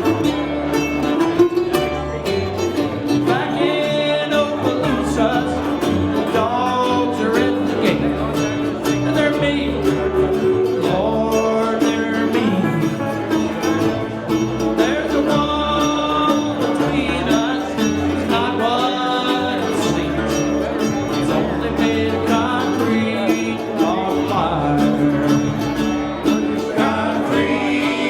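A live band playing a country-style song on acoustic, plucked-string instruments.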